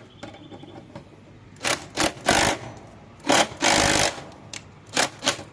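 Cordless impact driver run in several short bursts, hammering as it turns a puller's 14 mm forcing bolt against a mower engine's shaft.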